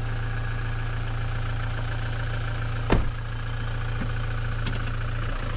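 Toyota Hilux engine idling steadily, with one sharp knock about three seconds in.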